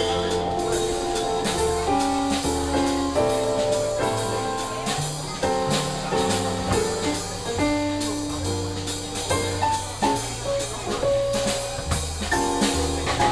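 Jazz combo playing: drum kit with cymbals keeping time over a walking bass line and held chords.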